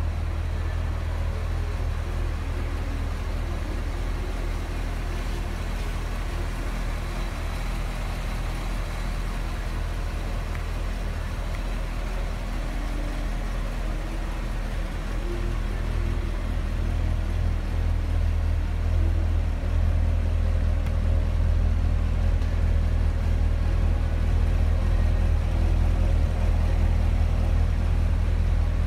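Corvette C6 Grand Sport's 6.2-litre LS3 V8 idling steadily, a low, even engine note that grows louder in the second half.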